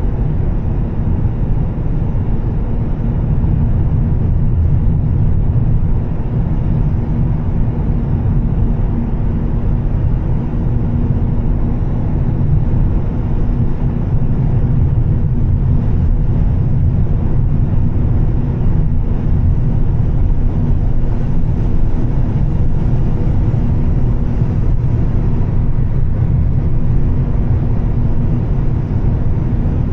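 Volvo S60 T6's turbocharged straight-six and Heico exhaust running at a steady cruise, a continuous low drone with road noise, holding even with no revving or gear changes.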